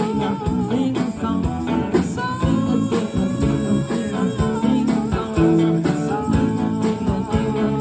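A band playing a song with guitar and a singing voice over a steady beat.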